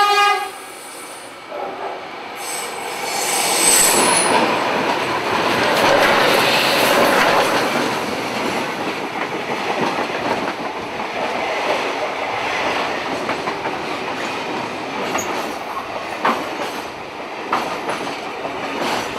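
A short diesel locomotive horn blast, then a train of locomotives and carriages passing close by: steady rumble of wheels on rail, with a high wheel squeal on the curve a few seconds in and rail-joint clicks near the end.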